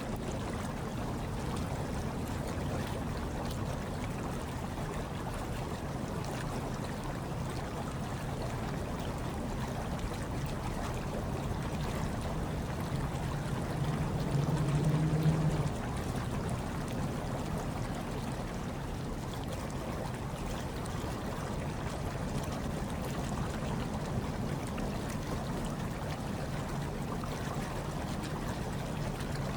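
Hot tub water bubbling and trickling in a steady wash. About halfway through, a low hum swells briefly louder for a second or two.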